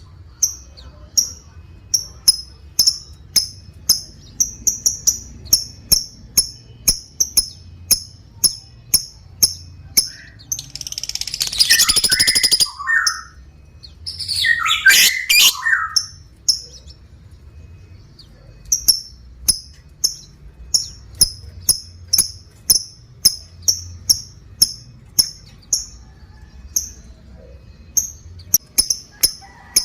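Lovebird calling: a run of short, sharp high chirps, about two or three a second, broken near the middle by two long rattling chatters, the long 'ngekek' call that lovebird keepers prize.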